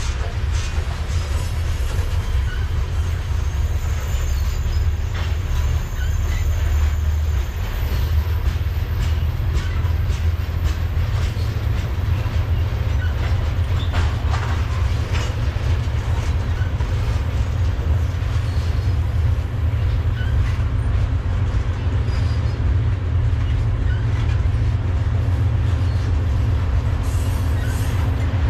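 Loaded BNSF covered hopper cars of a freight train rolling past: a steady low rumble of steel wheels on rail with scattered clicks. Faint thin wheel squeal comes through during the first part.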